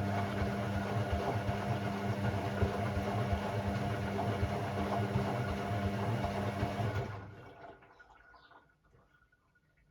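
Hoover Sportswear 1300 washing machine moving water: a steady electric hum under a rushing, gurgling water sound, which stops about seven seconds in and trails away.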